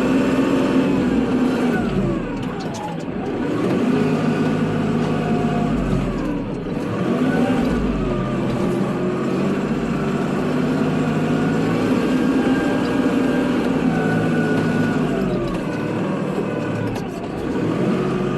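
Kubota tractor's diesel engine running under load while plowing snow, its pitch rising and falling repeatedly every few seconds as the revs change.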